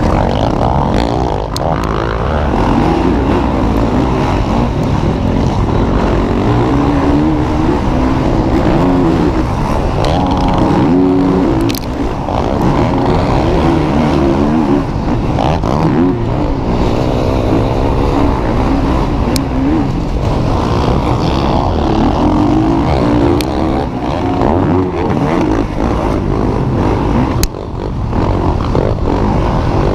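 Several motocross bikes racing, their engines revving up and down continuously and overlapping as the pack rides the track.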